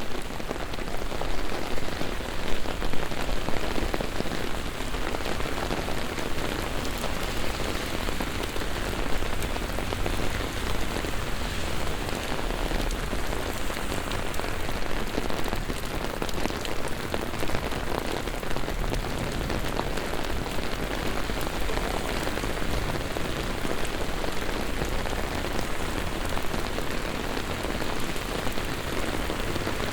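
Heavy rain pouring onto city streets and pavements, a dense, steady hiss packed with the patter of individual drops, a little louder in the first few seconds.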